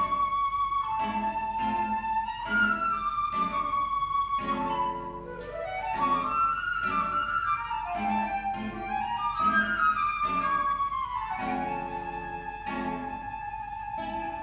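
Flute and guitar duo playing: the flute sustains long melody notes over plucked guitar chords. About five seconds in the flute rises in a short run, and near the end it settles on one long held note.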